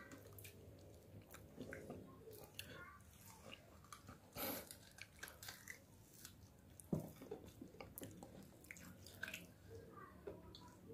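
Faint close-up eating sounds of a person biting and chewing meat off a spicy beef rib held by hand: many small wet mouth clicks and smacks. A louder bite comes about four and a half seconds in, and a single sharp knock about seven seconds in.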